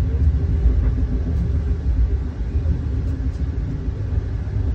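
Passenger train running along the track, a steady low rumble heard from inside the passenger car.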